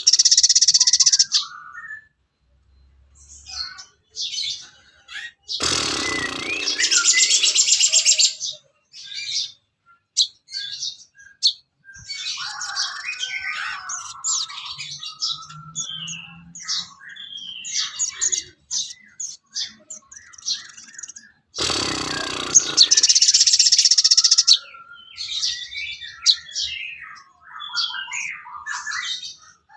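Recorded songbird calls used as masteran song material: three loud, fast trills of a second or more each, about a quarter, then three quarters, of the way through, with many short chirps and whistled notes in between.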